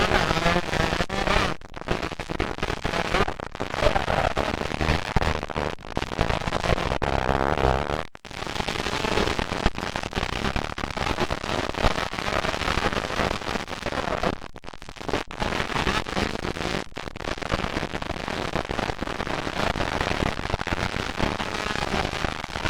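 125cc two-stroke motocross bike engines racing, a harsh crackling sound, with brief dips as the engines rev and back off.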